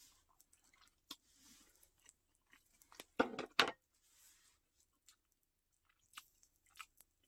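A person chewing a mouthful of grilled beef rib-finger meat, with soft wet mouth clicks and smacks; two louder short mouth sounds come a little past halfway.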